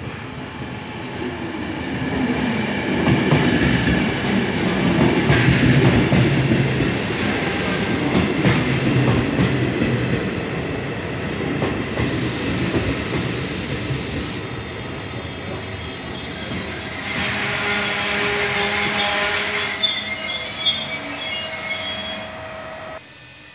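Regional train with an E464 electric locomotive arriving and rolling slowly past, its wheels rumbling and knocking on the rails as it draws level. From about two-thirds of the way through, the brakes squeal with several high steady tones as the train slows to a stop, and the sound cuts off suddenly near the end.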